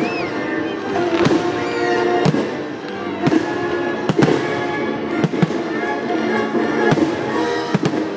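Aerial fireworks shells bursting in a series of sharp bangs, about one or two a second, over music with long held notes.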